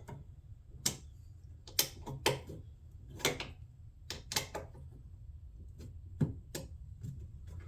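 Irregular clicks and taps of screws, washers and a plastic fender shroud being handled and fastened by hand, about eight in all, over a steady low hum.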